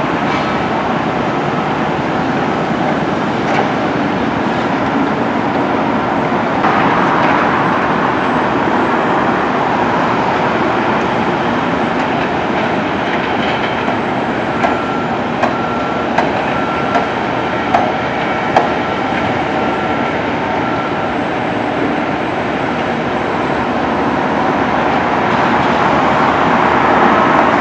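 A passenger train on the Disneyland Railroad running along the track with a steady rumble. In the middle stretch about six rail clicks come roughly 0.7 s apart, with a thin high whine coming and going.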